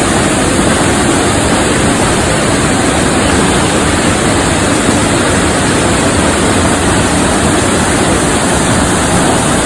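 Loud, steady rushing of water from a forest stream or waterfall close by, an even roar with no breaks.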